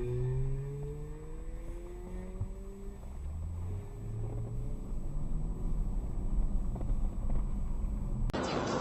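Car engine accelerating, its pitch rising over the first few seconds, then settling into a steady low rumble with road noise. Near the end the sound cuts suddenly to a louder, noisier stretch of driving.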